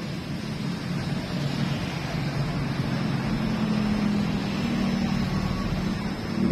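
A motor vehicle engine running steadily, its hum growing gradually louder.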